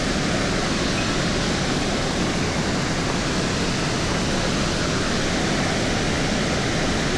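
Steady rushing of a mountain stream's flowing water, an even noise with no change in level.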